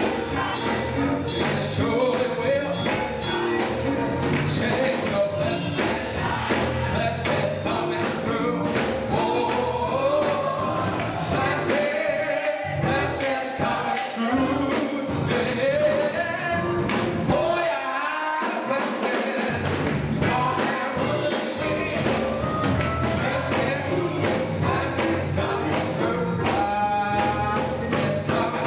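Gospel choir singing with instrumental accompaniment and percussion keeping the beat. The bass drops out briefly twice, about twelve seconds in and again near eighteen seconds.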